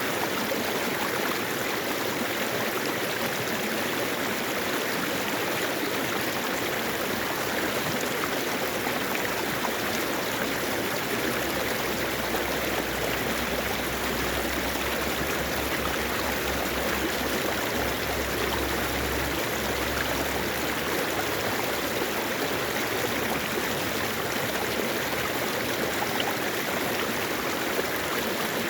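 Mountain valley stream flowing steadily over rocks, an even rushing and babbling of water.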